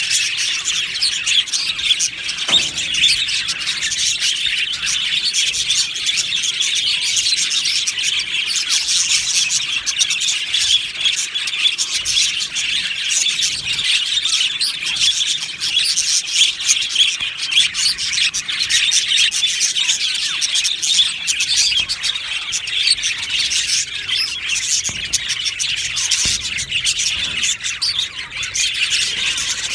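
A flock of budgerigars chirping and warbling together in a dense, continuous chatter.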